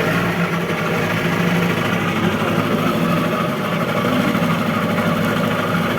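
Boat engine running steadily, an even low hum.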